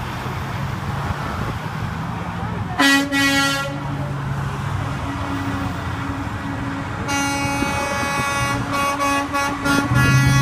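Semi-truck air horns: one short blast about three seconds in, then a longer blast from about seven seconds on, broken by several quick gaps, over the steady low running of truck engines.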